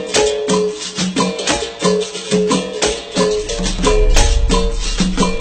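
Capoeira music: a berimbau struck in a steady, fast rhythm, switching between its low open note and a higher note, with the caxixi rattle shaking on each stroke. A low rumble comes in about three seconds in.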